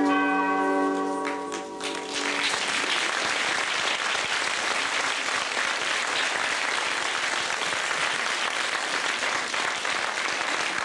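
The music's held closing chord dies away in the first two seconds. Then the audience applauds steadily.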